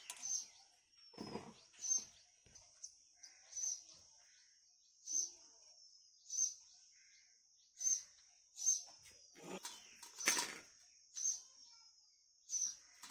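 A small bird repeating a short, high chirp with a slight downward slide, about once every second or so. A few light knocks come from bamboo sticks being handled on a steel plate.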